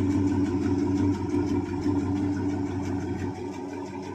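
1971 Chevy C20 pickup's small-block 350 V8 idling through its exhaust, getting a little quieter about a second in. The owner says the exhaust has a couple of leaks up front.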